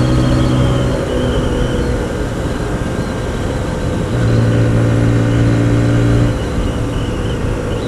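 Hyosung GT125R's 125cc V-twin engine running at a steady cruise, heard over constant wind rush on the rider's microphone. The engine note sinks under the wind for a few seconds in the middle and comes back strongly about halfway through.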